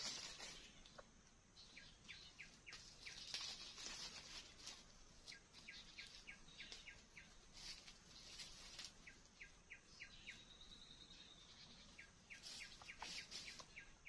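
Faint bird calls: runs of short, quick, evenly spaced chirps that come again every few seconds, with sharper single calls between them and a brief thin whistle about ten seconds in.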